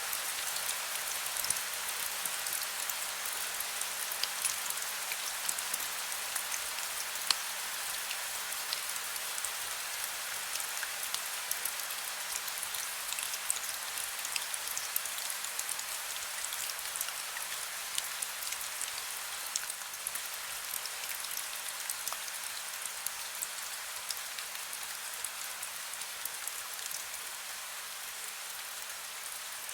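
Heavy rain falling steadily: a dense hiss with a constant patter of individual drops striking a hard surface.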